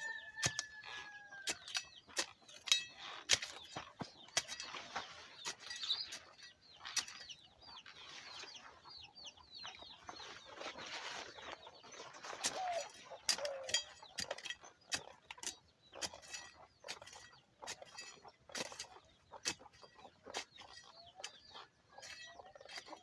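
Digging into the soil around a dasheen plant: rustling and scraping with many irregular sharp clicks. Chickens cluck now and then, with a short falling call just after the start.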